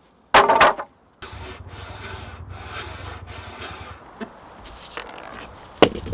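Wood being sawn: a run of rasping strokes, about three a second, after a short loud scrape about half a second in, ending with a sharp click near the end.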